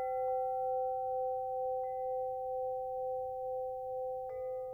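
Steady pure electronic tones of a 528 Hz healing-frequency drone, the low tone strongest with a second one above it. Fainter higher tones fade in and out, and a new set of them comes in about four seconds in.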